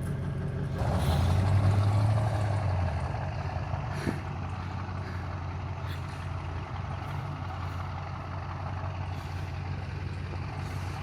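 Truck engine revving up under load about a second in, louder for roughly two seconds, then running steadily: a truck pulling a vehicle stuck in gravel and snow out on a tow strap.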